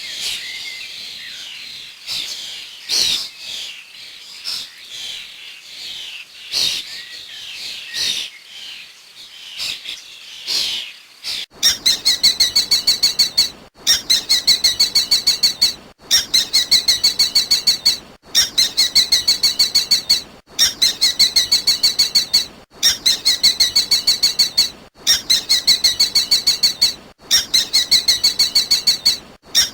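Birdsong: irregular high chirps and calls, then, about 11 seconds in, a short phrase of quick repeated notes, about six a second. The phrase plays again and again, each time cut off abruptly.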